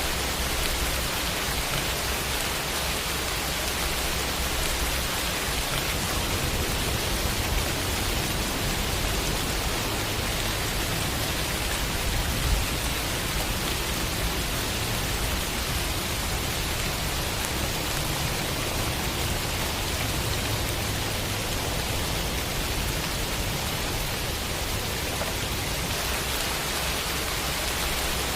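Steady rain falling, an even, unbroken hiss of drops on a surface, with one brief louder tap near the middle.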